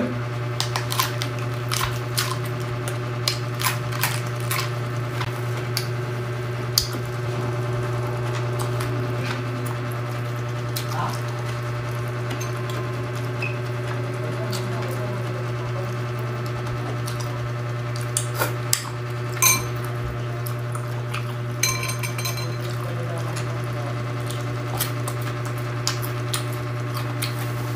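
Close-up eating sounds: wet chewing and crunching of raw cabbage leaves, with scattered clicks of a metal spoon against a ceramic bowl. A steady low hum runs underneath.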